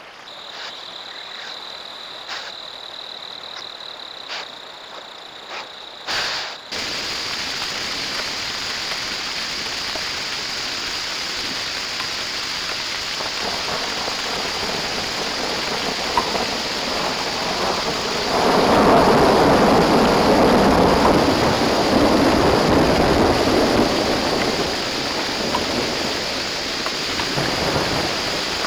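Steady rain picked up by a trail camera's microphone, an even hiss that swells louder for several seconds past the middle. It begins with a quieter stretch holding a faint steady high tone, which cuts off abruptly about six seconds in.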